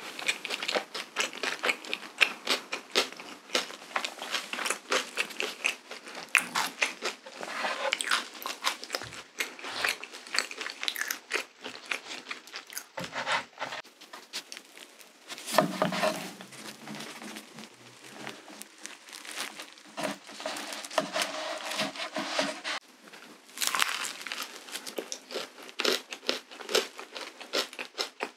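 Close-miked eating sounds: biting and chewing soft cream-filled waffles, with dense wet mouth clicks and smacks and some crinkling.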